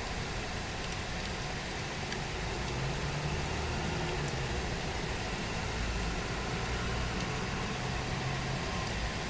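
Steady rain falling, an even hiss, with a low motor hum underneath that grows a little stronger about three seconds in.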